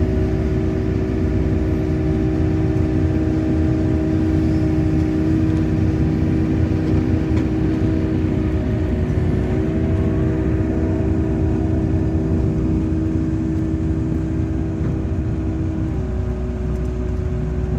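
Hyundai R80-7 excavator's diesel engine running steadily, heard from inside the cab, a constant drone with several steady tones over a low rumble. The tones shift slightly about ten seconds in, and one of them drops out near the end.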